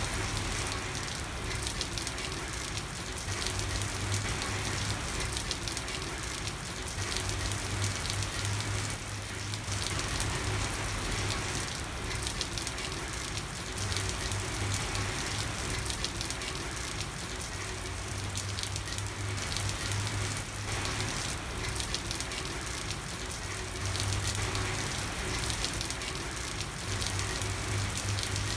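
Steady night rain falling on a street, an even hiss of drops, with a low hum that comes and goes underneath.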